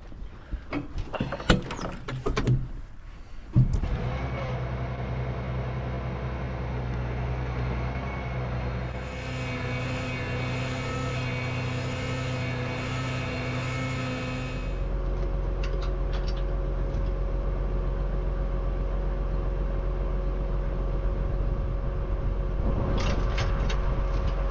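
A few clicks and knocks, then from about four seconds in a tractor engine running steadily. A higher hiss joins it for several seconds in the middle, and from about fifteen seconds on the engine's low hum is stronger.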